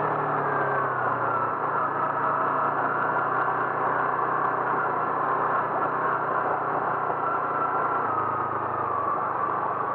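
A vehicle's engine running steadily while driving, over even road noise. Its pitch drops a little about eight seconds in.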